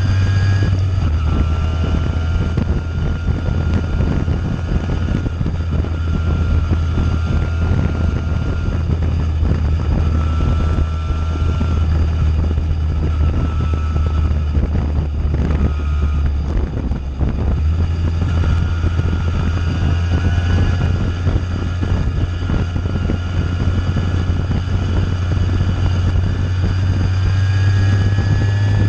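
Simson single-cylinder two-stroke engine running through a JW 85G+ aftermarket expansion exhaust under way at fairly steady revs. It drops briefly about halfway through, as on a gear change or a lift of the throttle, and the revs climb again near the end.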